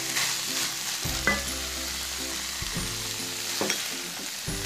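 Chopped onion and minced chicken sizzling in a nonstick wok as a silicone spatula stirs through them. There is a steady frying hiss, with two sharper clicks of the spatula, about a second in and past the middle.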